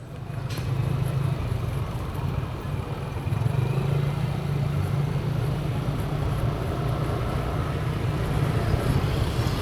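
Rented motorbike running steadily while being ridden, its engine and road noise holding at an even level after coming up in the first second.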